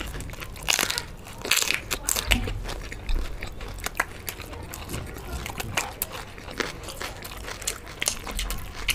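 Close-up chewing and crunching of fried samosa pastry and raw green chillies, with irregular crisp clicks of biting.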